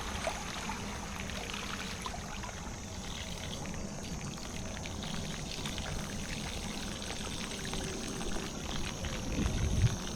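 Bicycle tyres churning and splashing through fairly deep water covering the trail, a steady pouring, trickling wash of water, with insects buzzing steadily in the background.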